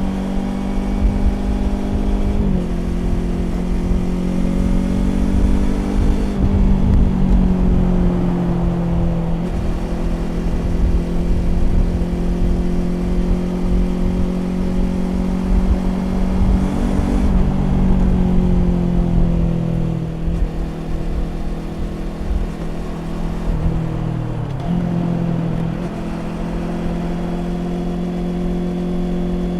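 2020 Yamaha YZF-R25's 249 cc parallel-twin engine running through a Prunus aftermarket exhaust while cruising at steady revs. Its pitch dips and climbs back a few times as the throttle is eased and reopened.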